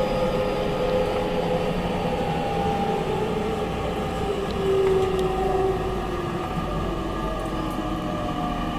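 Japanese 813 series electric train heard from inside a motor car: the traction motors and inverter give several tones that slowly fall in pitch over a steady running rumble, as the train brakes for a station stop.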